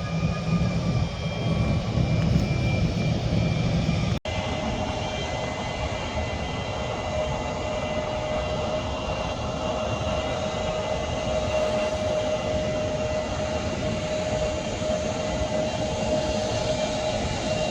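Jet airliner engines running: a steady rumble with a held whine. The sound drops out briefly about four seconds in, then a steadier engine whine over a hiss carries on.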